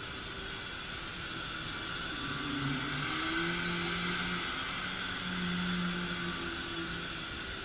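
Vacuum cleaner running steadily, its motor giving a whining rush, with lower tones that shift in pitch for a few seconds in the middle.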